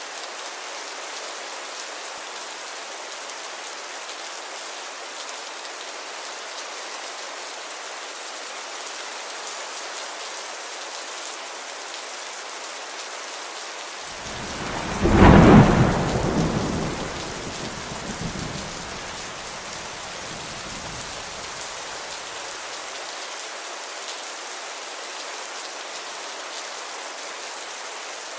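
Steady rainfall with a single peal of thunder about halfway: it swells in, cracks loudest a second later, then rumbles away with a smaller second roll, fading over several seconds.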